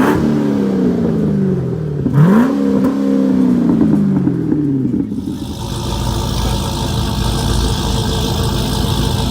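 Car engine revved twice: each time the pitch climbs quickly, then falls back slowly as the revs drop. About five seconds in it gives way to a steady engine drone with hiss over it.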